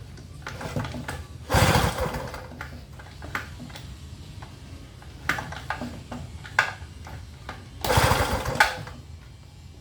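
Gasoline inverter generator's small engine cranked twice on its pull starter, each pull a short burst of rapid chugging that dies without catching. The owner then finds no fuel coming through the primer, so the carburettor is bone dry.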